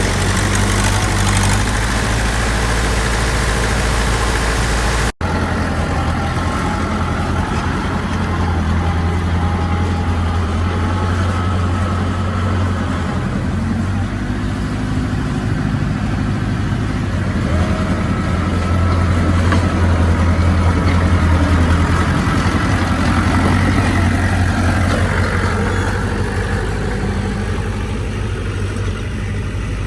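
Heavy diesel engine of earthmoving equipment running steadily with a deep hum. There is a brief dropout about five seconds in, where the sound cuts and resumes.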